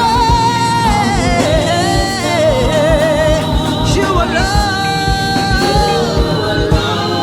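Gospel worship song: sung vocal lines with slides and held notes over a steady beat.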